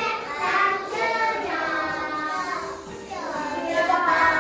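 Young children singing a children's song.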